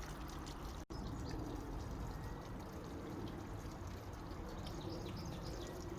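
Water from a small submersible-pump fountain in a plastic bird bath, pouring and trickling steadily back into the tank. The sound cuts out for an instant about a second in.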